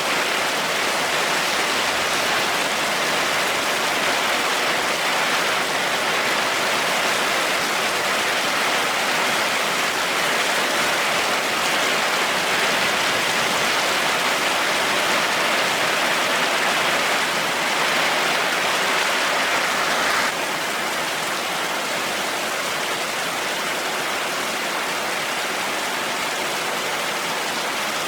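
Heavy rain falling steadily, an even hiss with no thunder. About twenty seconds in the sound abruptly drops a little in level and brightness.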